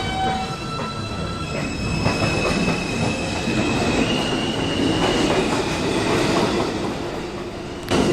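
R142A subway car pulling away and gathering speed, its traction motors giving off whining tones that step up in pitch over a broad rumble of wheels on rail. Near the end the noise jumps suddenly louder.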